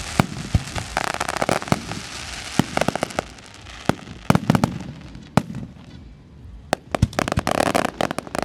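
Fireworks going off in quick succession: many sharp bangs, with dense crackling bursts about a second in and again near the end.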